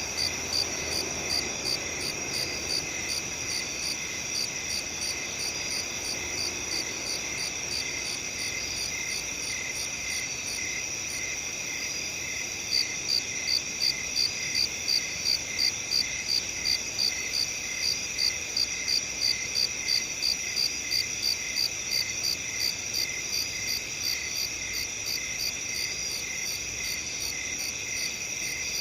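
Crickets chirping in a field: a steady high trill with a regular louder chirp about twice a second, which comes to the fore about halfway through.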